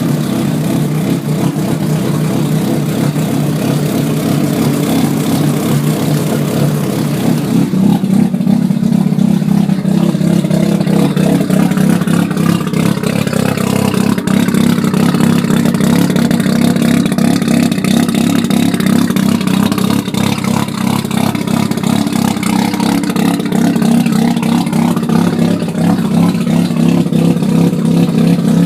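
1987 Mazda RX-7 Turbo II's twin-rotor 13B turbo rotary engine running through a 4-inch straight-pipe exhaust with no mufflers, on its first start-up. It runs steadily, then about eight seconds in it picks up to a slightly faster, louder run and holds there.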